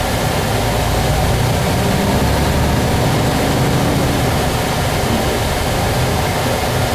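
Kenworth truck's diesel engine running with a steady low rumble, heard from inside the cab.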